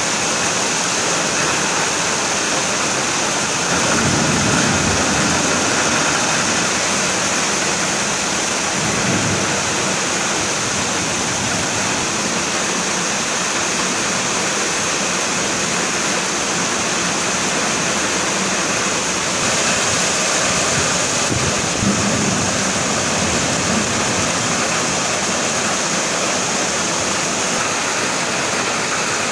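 Heavy rain pouring down in a dense, even hiss throughout, with low rumbles of thunder a few seconds in, again around nine seconds, and once more past twenty seconds.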